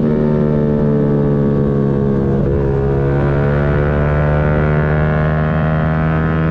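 Yamaha MT-125's single-cylinder 125 cc four-stroke engine running under way, its pitch climbing slowly from about halfway through as the bike gathers speed.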